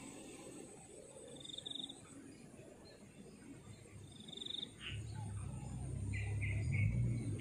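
Birds chirping: a few short high trills, a falling call and three quick chirps, with a low steady rumble coming in about five seconds in.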